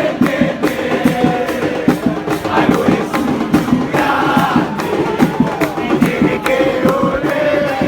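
Football supporters' crowd singing a chant together, with drums beating several times a second.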